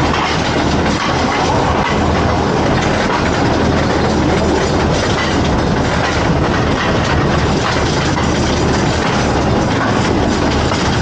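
Rail vehicle running along the track: a steady loud rumble with irregular clatter of the wheels on the rails.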